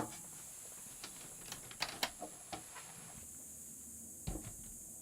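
Scattered light clicks and small knocks, several close together in the first half and one more, with a low thump, about four seconds in, over a faint steady high hiss that drops away partway through.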